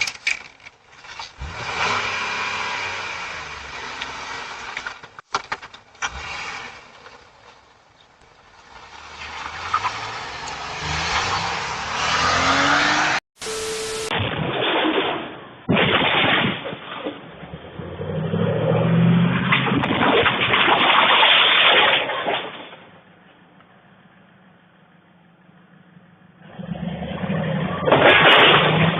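Vehicle engine and road noise across several spliced clips, swelling and fading, with abrupt cuts between them.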